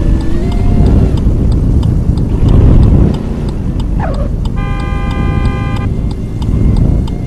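Car engines and exhausts rumbling loudly, swelling about two and a half seconds in. A horn sounds once for just over a second, about five seconds in.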